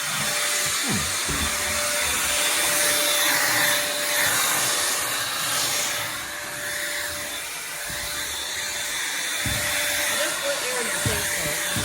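Bissell 3-in-1 stick vacuum running: a steady motor whine over rushing air, the whine dropping away for a few seconds in the middle and coming back, with a few low bumps near the end.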